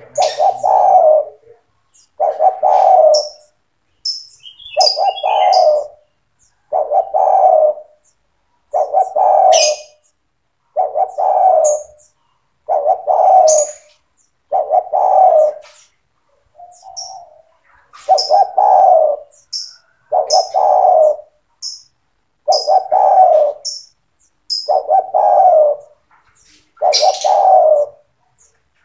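Spotted dove cooing over and over, one phrase about every two seconds, with short high chirps between the phrases.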